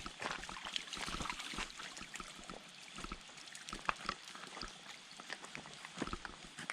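Shallow stream water trickling and splashing, with many irregular light clicks and splashes.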